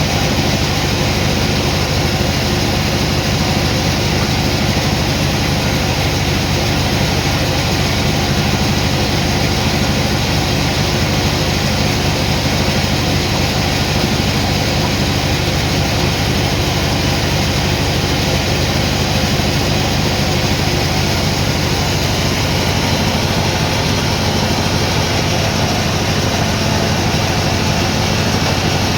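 Sawmill machinery running steadily, a heavy engine-like sound that holds even throughout with no breaks or changes.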